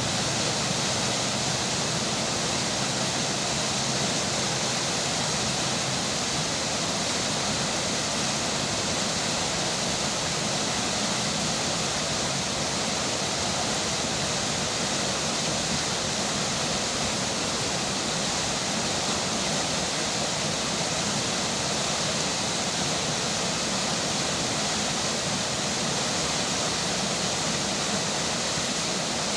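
River water flowing with rain falling, a steady, even hiss of running water with no breaks or changes.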